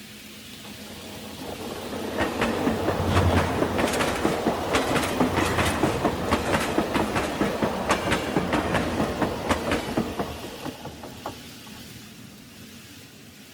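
O scale model train rolling past, its wheels clicking quickly over the track joints; it builds up about two seconds in and fades away near the end.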